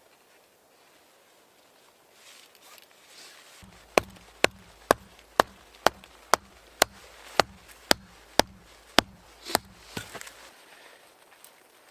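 A tool striking repeatedly: about a dozen sharp, evenly spaced blows, roughly two a second, stopping near the end.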